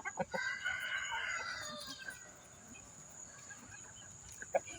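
A rooster crowing once, a call of about two seconds that falls away at the end, among a flock of chickens.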